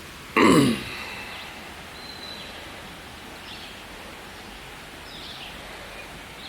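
Steady outdoor background noise with a few faint bird chirps, after a short, loud sound with falling pitch about half a second in.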